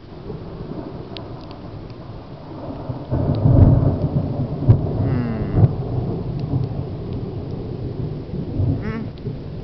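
Loud, close thunder: a deep rumble that swells about three seconds in into a heavy crash with a couple of sharp cracks, then rolls on steadily. Rain falls throughout.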